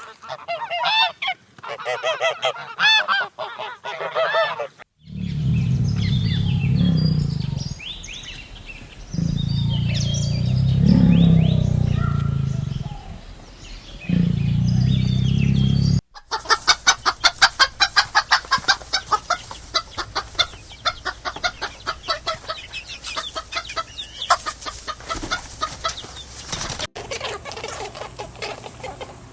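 A run of farm animal calls. First come short calls that bend up and down in pitch, then three long, low, loud calls, then a long stretch of rapid clucking and pattering with wing flapping.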